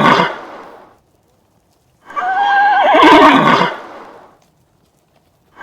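A long, wavering animal call, heard once in full, with another identical call starting near the end.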